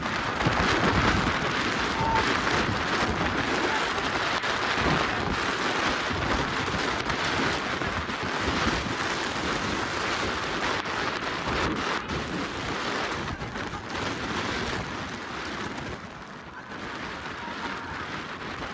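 Heavy rain and storm wind: a loud, dense rush with many small pattering impacts, easing a little near the end.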